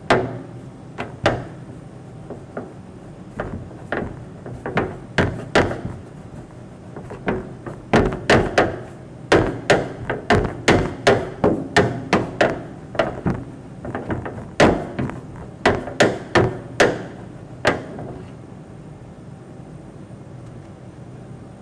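Irregular sharp knocks or blows, some in quick runs, over a steady low hum; the knocking stops about three seconds before the end.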